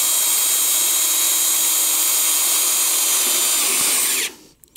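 Hand-held electric drill boring into a broken steel exhaust manifold stud, running at a steady high whine, then released about four seconds in and winding down.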